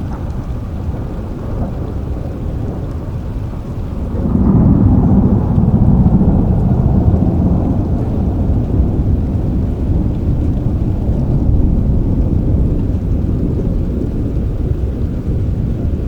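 Steady rain with a low roll of thunder that swells about four seconds in and slowly fades.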